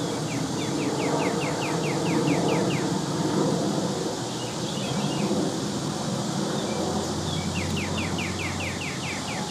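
Outdoor background noise, steady, with a bird's rapid trill of short rising notes, about five a second, heard twice: once at the start and again near the end.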